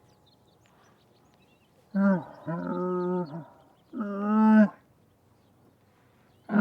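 Camel moaning: silence for about two seconds, then two drawn-out moans in quick succession and a third a second later, with another starting right at the end.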